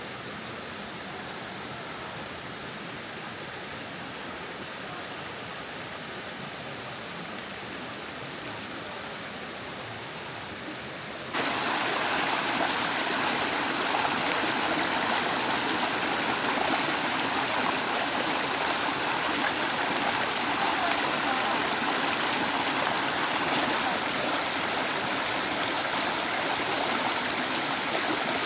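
Mountain valley stream running steadily; the sound of the water jumps suddenly louder and brighter about eleven seconds in, then holds steady.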